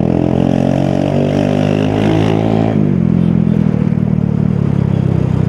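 Motorcycle engine running under way, holding a steady pitch and then dropping to a lower, steady pitch a little past halfway as the throttle is eased off.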